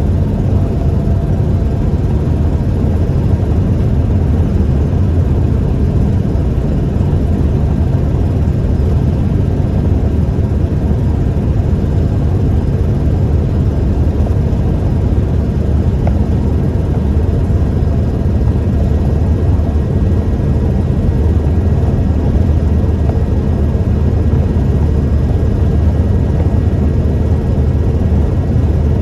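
A 1998 Toyota Tacoma 4WD pickup driving along: a steady low rumble of engine and road noise that holds even throughout.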